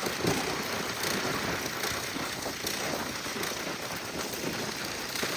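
Steady city street ambience: a continuous wash of traffic noise with no single event standing out.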